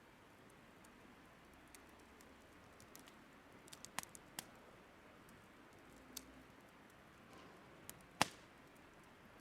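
Burning firewood crackling: scattered sharp pops and clicks, the loudest about eight seconds in, over a faint steady background hiss.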